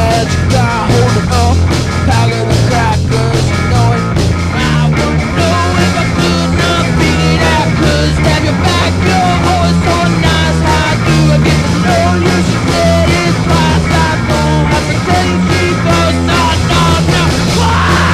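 Band music playing loudly: a steady drum beat over sustained bass notes, with a wavering melody line above.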